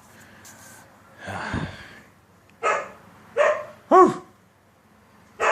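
Pet dog barking: a rough low woof about a second in, then three short sharp barks in quick succession, and another at the very end.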